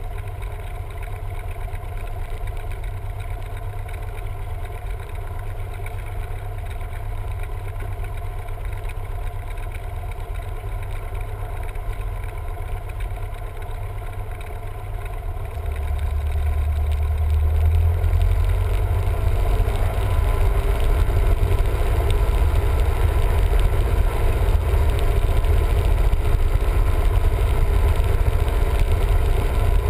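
Cessna 172M's four-cylinder Lycoming O-320 piston engine running steadily at low power, then brought up to a higher power about halfway through, after which it runs steadily louder.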